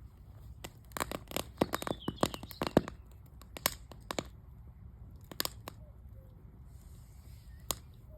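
Wood fire in a fire barrel crackling and popping: a quick run of sharp cracks about a second in, then single pops every second or two.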